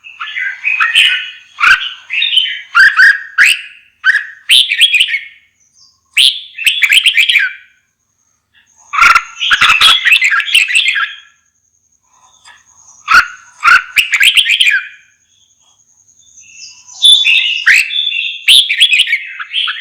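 Red-whiskered bulbul singing loud, warbling phrases of a second or two each, over and over, with short pauses between them.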